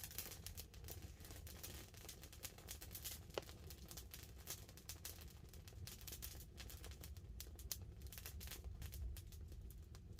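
Wood campfire crackling faintly, with irregular small pops and one sharper pop about three and a half seconds in, over a low steady rumble.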